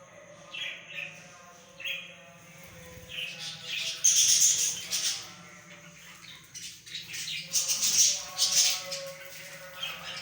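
Small cage birds chirping and squawking in short bursts, loudest around four to five seconds in and again around eight seconds in, over steady background music.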